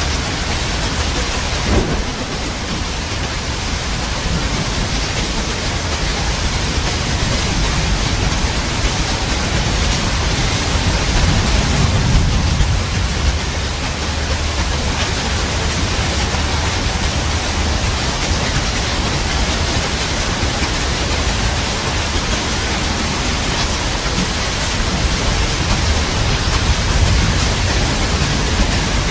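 Steady heavy rain with low rolls of thunder, one swelling about a third of the way through and another near the end.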